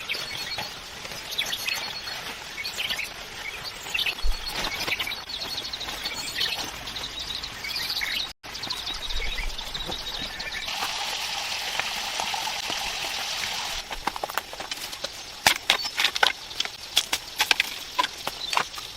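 Birds chirping for the first part. After a short cut, a steady rush like pouring water, then a string of sharp knocks and clicks.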